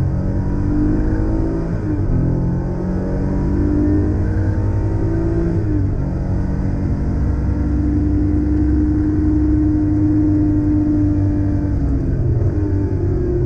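Porsche 911 Carrera 3.2's air-cooled flat-six heard from inside the cabin, accelerating hard with upshifts about two and six seconds in. It then holds a steady pitch at speed and drops off near the end as the driver lifts.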